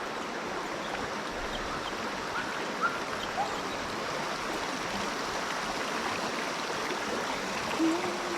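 Steady rush of a clear, rocky river flowing, with a few faint short chirps over it.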